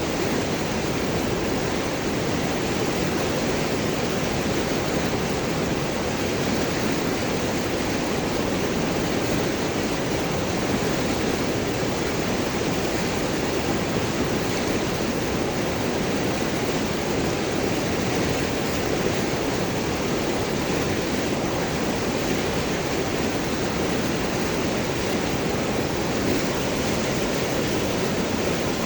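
River water flowing over and around large rocks: a steady, unbroken rush with gurgling.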